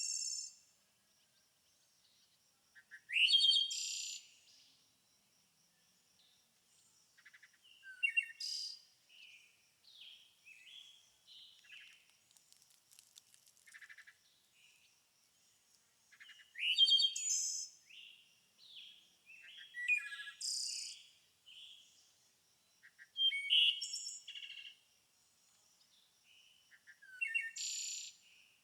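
A songbird singing short, loud, high-pitched phrases every few seconds, several of them opening with a quick rising note, with softer chirps in between. A thin, steady high tone runs underneath.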